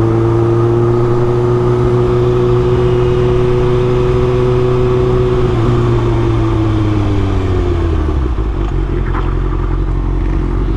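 Sport motorcycle engine, the rider's Kawasaki Ninja ZX-6R, running at a steady cruising speed under a rush of riding noise, then falling in pitch as the throttle is rolled off about halfway through.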